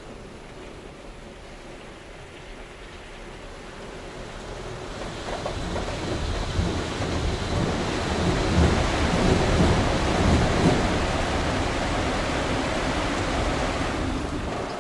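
Automatic truck wash machine spraying water over a large truck, a steady rush like heavy rain that builds over several seconds, holds at its loudest and eases near the end.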